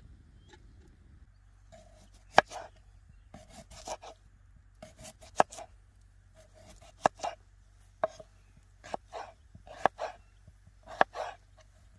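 A blade chopping with repeated sharp strikes, about one a second, starting about two seconds in; each knock is followed by a brief rustle.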